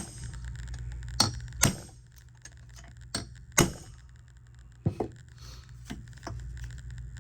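Hammer blows beating the armature shaft of a golf cart starter-generator down through its bearing to drive it out: about six sharp knocks at uneven intervals, some with a short metallic ring.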